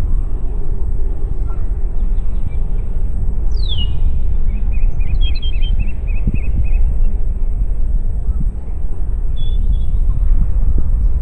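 Wind rumbling steadily on the microphone beside a lake, with birdsong over it: a falling whistle about three seconds in, then a quick run of about eight short notes, and a brief call near the end.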